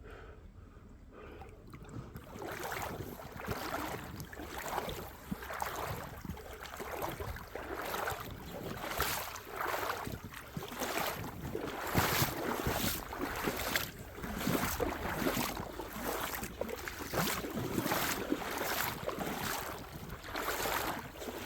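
Footsteps crunching over creek gravel and rocks at a steady walking pace, a little over one step a second, starting about two seconds in.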